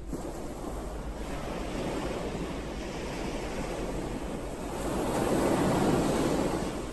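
Ocean waves washing onto the shore, one wave swelling to its loudest about six seconds in, then easing off. There is some wind noise on the microphone.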